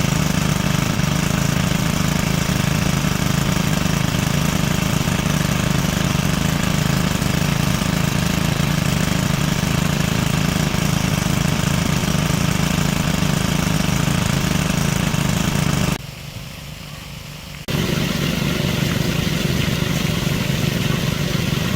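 A small engine running steadily at an even speed. It drops away briefly about sixteen seconds in, then picks up again.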